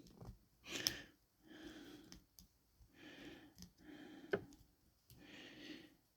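Faint rustling and handling noise from a plastic action figure and its packaging being handled, with a couple of small sharp clicks, one about a second in and one past four seconds.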